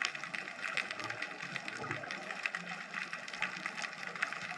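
Underwater ambience recorded through a GoPro's waterproof housing: a dense, irregular crackle of small clicks that runs on steadily, with a faint low murmur beneath.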